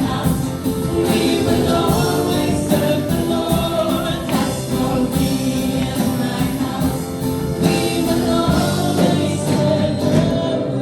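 Worship song: a group of voices singing together over the band's instruments.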